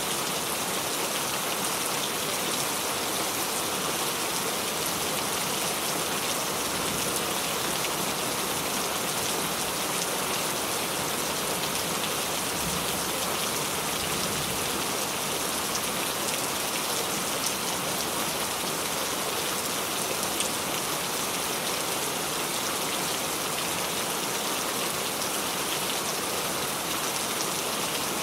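Steady rain falling, an even hiss of many small drops hitting a surface, with no thunder.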